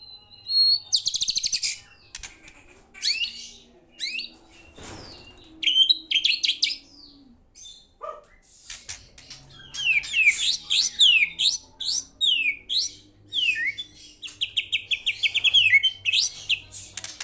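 A murai batu (white-rumped shama) singing vigorously: varied phrases of rapid trills and sweeping whistles, each a second or so long, with short pauses between them.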